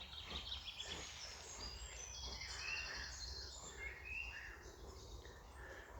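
Small birds singing outdoors, with quick trills and chirps, over a steady low rumble of wind on the microphone.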